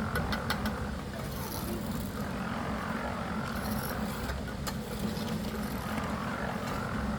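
An engine running steadily, with a few light clicks and knocks over it.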